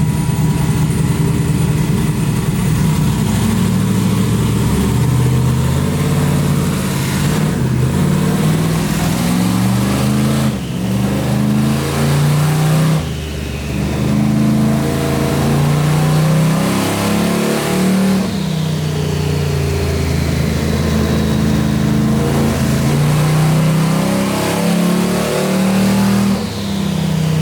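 Twin-turbocharged Chevrolet S10 engine run on a dyno at 7 psi of boost, revving up and down repeatedly, with brief drops in level as the throttle comes off. A high whistle falls in pitch as it lets off.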